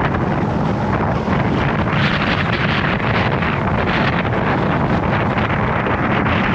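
Strong wind buffeting the GoPro's microphone: a loud, steady rumbling noise that surges and eases with the gusts.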